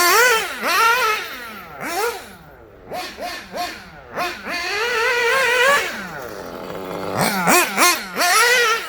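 Small nitro engine of a 1/8-scale Kyosho Inferno Neo 2.0 buggy with a Dynamite 053 tuned pipe, revving up and dropping back in repeated short throttle bursts, with a longer held pull about halfway through.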